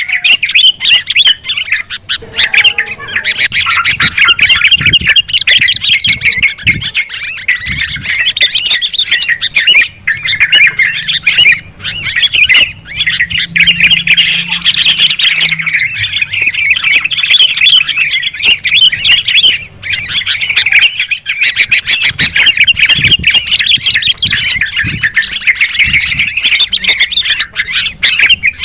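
Bird-lure recording of bulbuls, yellow-vented bulbul and sooty-headed bulbul, chattering and squawking noisily in a dense, unbroken chorus of quick, rough calls.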